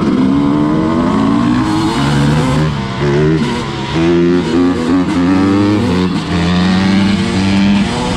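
Dirt bike engine running under way, its pitch rising and falling repeatedly as the rider works the throttle and gears.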